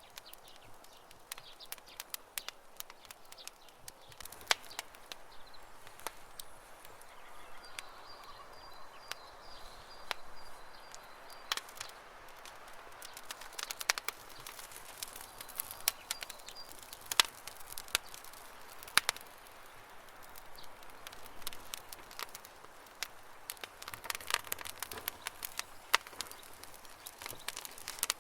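Campfire crackling, with irregular sharp pops and snaps over a soft steady hiss. A bird trills faintly with a high repeated note about a third of the way in, and again briefly past the middle.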